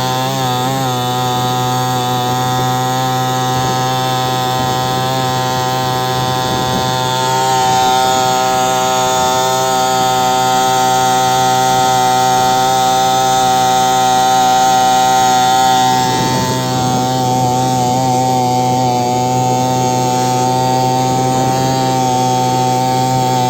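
Carver 3.8 small outboard motor running steadily under way, its pitch wavering briefly near the start and again about two-thirds through.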